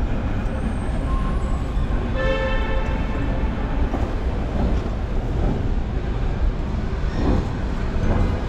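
Low, steady rumble of a Disneyland parking tram waiting to depart. About two seconds in, a brief steady tone sounds for under a second.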